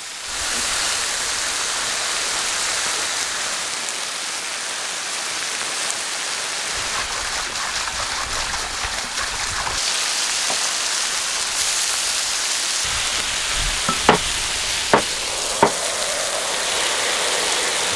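Lamb slices, potatoes and tomatoes sizzling in rendered sheep-tail fat (kurduk) on a hot flat cooking stone: a steady high hiss, with a few sharp clicks near the end.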